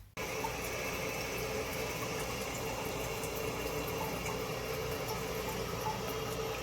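A steady rushing noise that starts abruptly and holds an even level, with no rhythm or distinct events.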